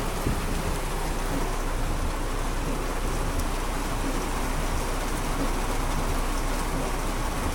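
Heavy rain pelting a car's roof and windshield, heard from inside the car: a steady, dense hiss of drops that doesn't let up.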